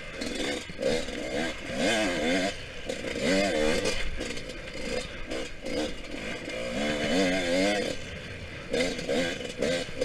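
Yamaha YZ125X two-stroke dirt bike engine revving up and falling off again and again as it is ridden hard, the pitch climbing and dropping every second or so.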